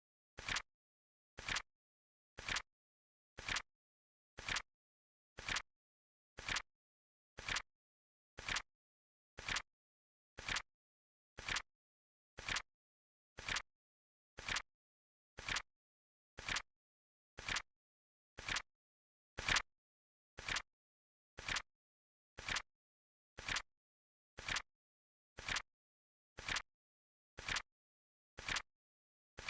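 Flip clock timer's flip sound effect: a short, sharp click once every second at a steady pace, one slightly louder about two-thirds of the way through.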